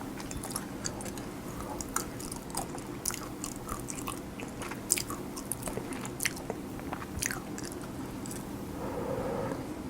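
Close-miked chewing of cheese and egg kimchi fried rice: irregular wet mouth smacks and small crunches, over a steady low hum.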